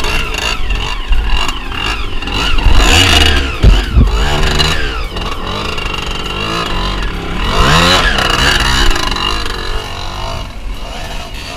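Trail motorcycle engine revving up and down in repeated surges as the bike climbs a steep dirt bank, with a couple of sharp knocks about four seconds in.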